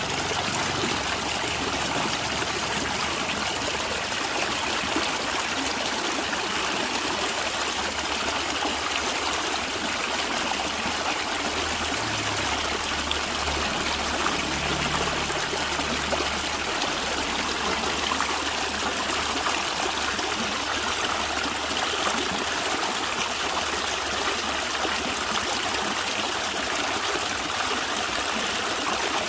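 A natural stream running and trickling steadily with a gurgling sound.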